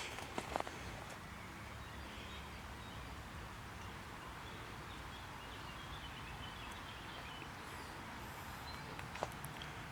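Outdoor ambience: a steady low background noise with faint bird chirps in the middle, and a few footsteps near the start and once more near the end.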